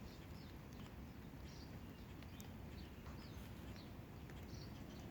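Quiet outdoor ambience: a low steady rumble with scattered short, faint bird chirps.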